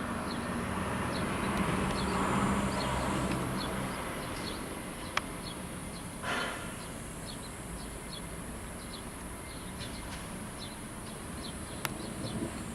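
Light-vented bulbul giving short, high chirps over and over, about two a second, over a steady high hiss. A low rumble fades out in the first few seconds, and there are a couple of sharp clicks.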